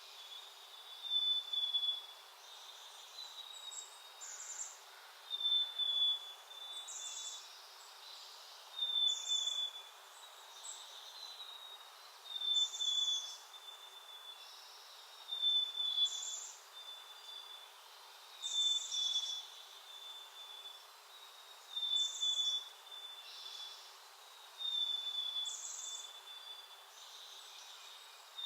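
A bird repeating a short, slightly falling high whistle with a brief hiss above it, about every three seconds.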